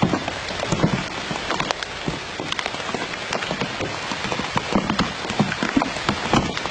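A dense, irregular patter of small taps over a steady hiss.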